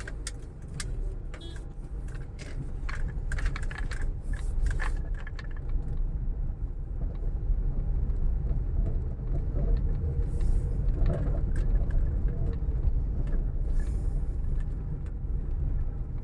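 Motor vehicle on the road: a steady low rumble, with a scatter of light clicks and rattles in the first five seconds.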